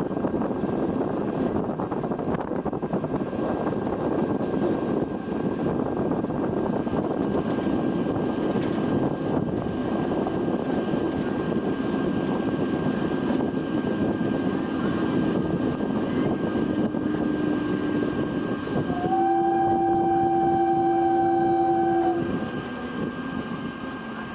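A train running past with a steady rumble of wheels and coaches on the track. Near the end its locomotive sounds a steady two-tone horn for about three seconds, and then the rumble fades.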